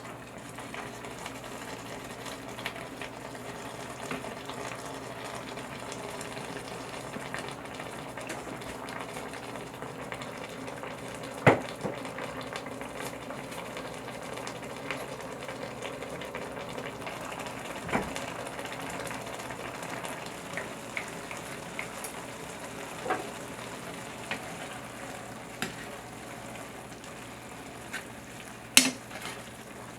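Seasoned dried radish greens cooking in a pan with oil and broth, a steady sizzle throughout. A few sharp knocks break in, the loudest a little over a third of the way through and near the end.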